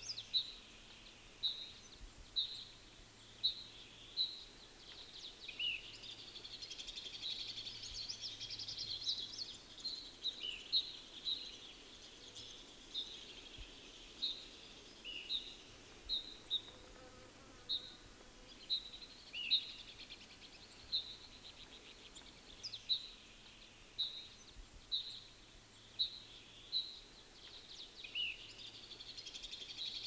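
Small birds calling: a short high chirp repeated about once a second, with stretches of buzzy trilling and a few lower downslurred notes.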